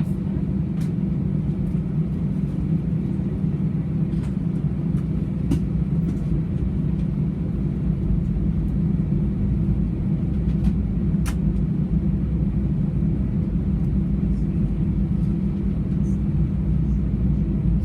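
Steady low rumble of an Airbus A320 cabin on the ground before takeoff, the engines running and the airframe droning, with a few light clicks.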